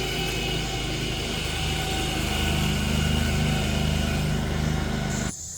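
Lawn mower engine running steadily, swelling a little louder midway, then cutting off abruptly near the end, where a steady high cricket trill takes over.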